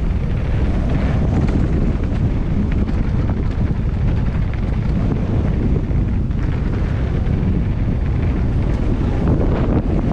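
Heavy wind buffeting a camera microphone while riding a mountain bike down an off-road trail: a loud, steady low rumble.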